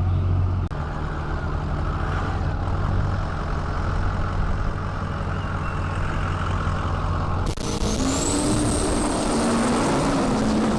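Diesel pickup truck engine running with a steady low drone. About three-quarters of the way through, a louder diesel engine takes over, with a high turbo whine that rises and then holds.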